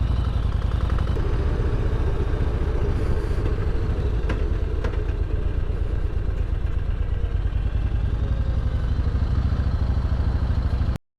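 Motorcycle running steadily while riding, heard from on the bike as a dense, even low rumble. It cuts off abruptly near the end.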